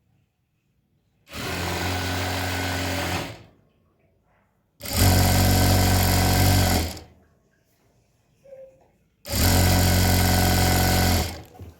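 Electric sewing machine running in three short bursts of about two seconds each, stopping and starting between stitch runs.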